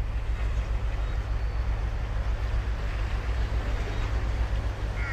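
Ocean surf washing on a sandy beach, a steady deep rumble with an even wash of spray noise and no breaks.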